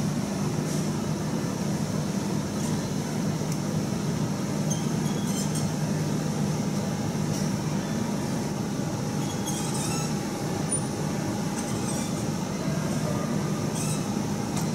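Steady gym room noise with a low hum, broken by scattered light metallic clinks.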